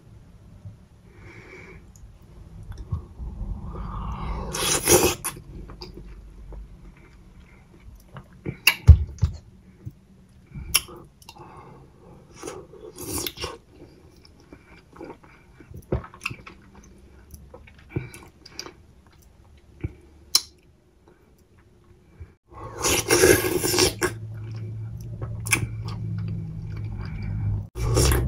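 Close-miked chewing of soft ripe papaya: irregular wet mouth clicks and smacks, with louder bursts of chewing about five seconds in and again near the end.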